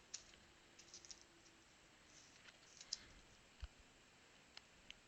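Near silence with faint, scattered clicks and taps from trading cards being handled and flipped through a pack.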